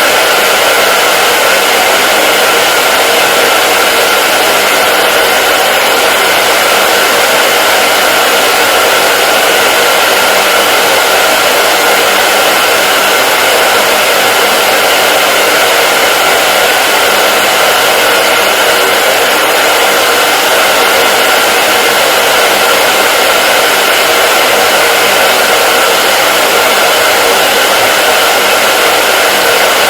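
Hair dryer running continuously: a steady, loud rush of blowing air with a faint whine from the motor, unchanging throughout.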